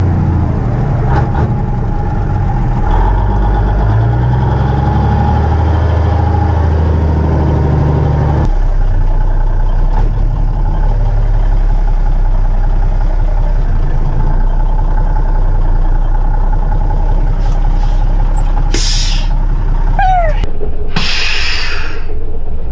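Cummins diesel engine of an old dump truck running steadily, its note stepping down about eight seconds in. Near the end come two short bursts of hissing air, the second a little longer, with a few brief squeaks.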